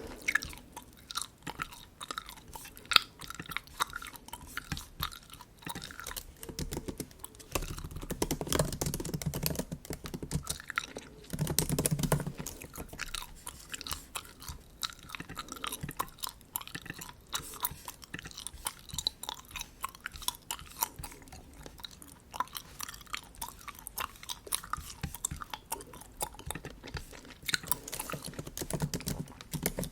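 Bubble gum chewed close to the microphone: a steady run of quick, wet, clicky chews and smacks, with two brief low-pitched stretches about 8 and 12 seconds in.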